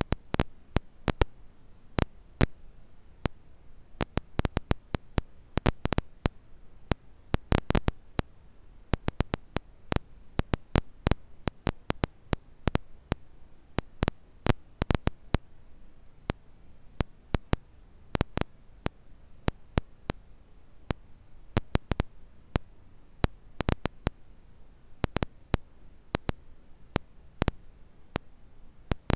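Wood fire crackling: irregular sharp snaps and pops, sometimes several in quick flurries, over a faint steady hiss.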